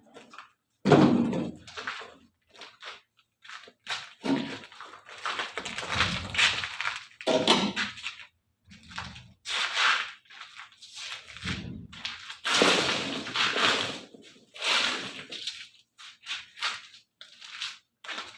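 Irregular series of heavy thuds and crashes, a dozen or so with short quiet gaps between them, loudest about a second in and around thirteen seconds in.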